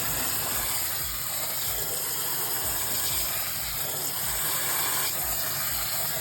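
Cold tap water running steadily over freshly drained noodles to cool them down.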